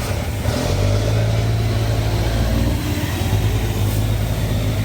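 Heavy truck engines running with a steady, deep low drone.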